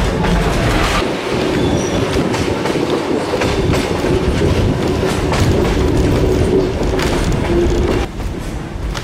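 Passenger train carriages running along the track, heard from aboard: a steady rolling rumble with wheel clatter, slightly quieter about eight seconds in.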